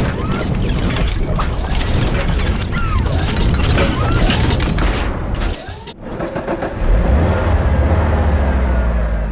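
Cinematic trailer-style sound effects: a dense run of crashing, smashing hits, a short dip about six seconds in, then a deep booming rumble that fades away near the end.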